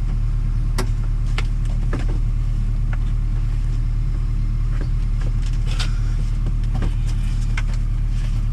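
A steady low rumble, with a series of sharp clicks and taps from a wiring clip being clamped back in place inside a car door.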